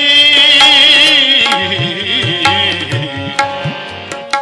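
Tabla and harmonium accompanying Sikh shabad kirtan in a short instrumental passage between sung lines. A held sung note trails off in the first second or two, and the tabla strokes carry on, quicker near the end.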